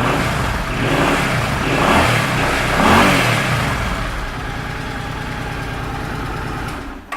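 2008 Suzuki Boulevard C50's 805 cc V-twin idling, then blipped three times, the revs rising and falling about one, two and three seconds in, the last the loudest. It settles back to idle and is switched off near the end.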